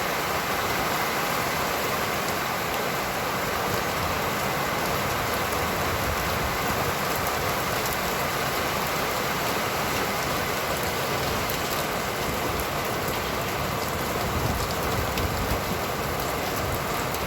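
Steady rain falling, a dense even hiss, with a few brief low rumbles near the end.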